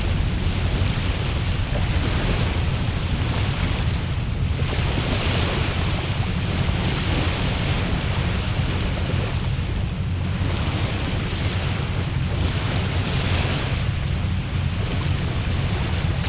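Wood fire burning in a Coleman Fire Disc fire pit, heard as a steady rushing hiss that swells and eases every few seconds, over a heavy low rumble of wind on the microphone. A thin, steady high whine runs under it all.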